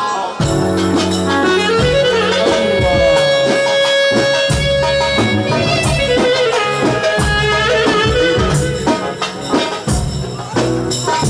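Egyptian sha'bi wedding music, instrumental: a melody line holding one long note for a few seconds, over a steady drum beat.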